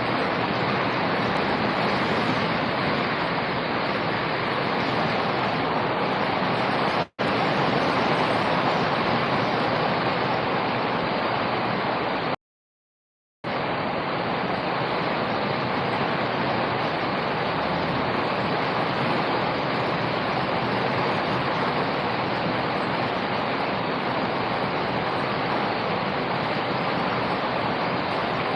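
Steady rain falling, a constant even hiss. It cuts out for an instant about seven seconds in, then drops to total silence for about a second a few seconds later before resuming unchanged.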